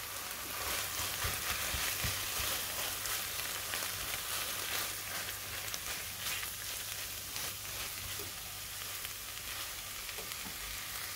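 Chicken mince with chopped onion, garlic, bell pepper and tomato frying in vegetable oil in a large pan: a steady sizzle.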